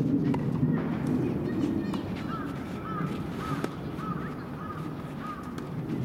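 A bird calling a run of short repeated notes, about three a second, from about two seconds in until near the end. A single sharp knock comes about halfway through, over a steady low outdoor background.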